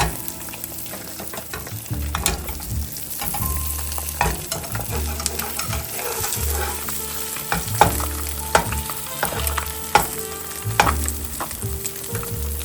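An egg frying in a hot pan: steady sizzling with scattered sharp pops and crackles.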